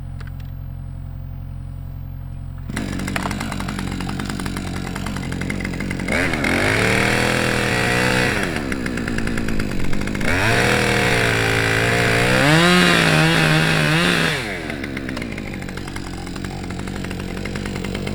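Two-stroke chainsaw idling, then revved up about three seconds in and run hard twice as it cuts the bottom of a felling notch. The engine pitch sags and recovers under the load of the cut, then drops back to a lower, steady run near the end.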